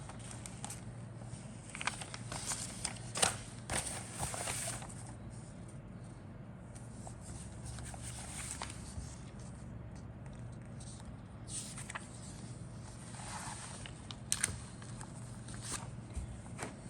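Rustling, crackling and light clicks of plastic model kit parts and their bags being handled, in two bouts, over a steady low hum.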